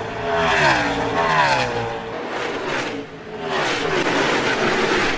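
NASCAR Gen-6 stock car V8 engine running hard, its pitch rising and falling over the first two seconds, dropping off briefly around three seconds in, then steady again.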